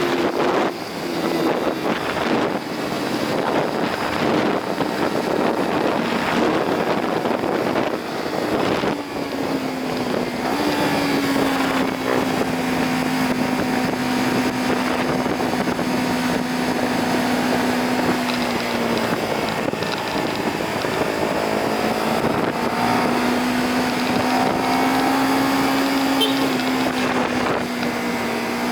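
Honda CBR250RR motorcycle engine running through its stock exhaust while being ridden, its note holding fairly steady, dropping a couple of times and picking up again in the last third. Heavy wind buffeting on the microphone, gustiest in the first ten seconds.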